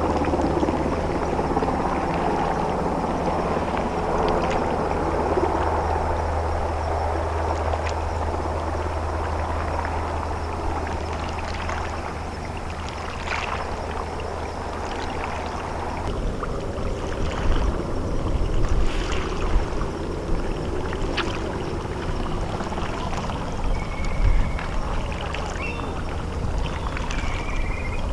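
Diving tender YDT01's diesel engines droning low and steady, with water churning, the drone dropping away about halfway through. After that come irregular low rumbles and a couple of short high chirps near the end.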